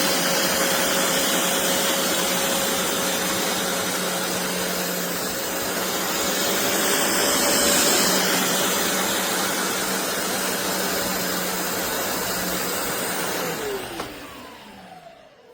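BISSELL Revolution HydroSteam Pet carpet shampooer's suction motor running steadily. About fourteen seconds in it is switched off and winds down with a falling whine.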